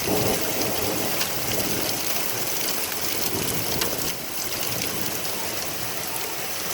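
Heavy rain falling: a steady hiss peppered with the ticks of individual drops hitting hard surfaces.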